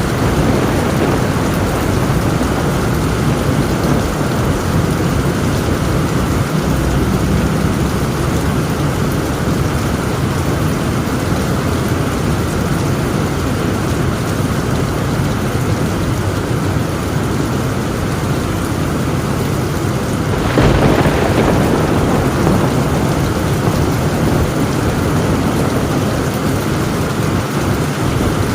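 Heavy rain pouring steadily on a tin roof, with a low rumble of thunder underneath. About two-thirds of the way through, a sudden thunderclap breaks in, the loudest moment, and rumbles on for a couple of seconds.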